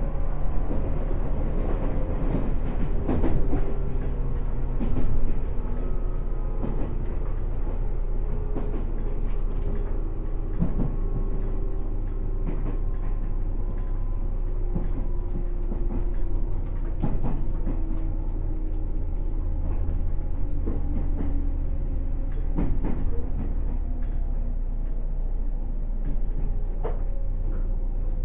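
107 series electric multiple unit running on the rails, its motor and gear whine slowly falling in pitch as the train slows for the station, with a steady rumble and scattered clicks from the rail joints.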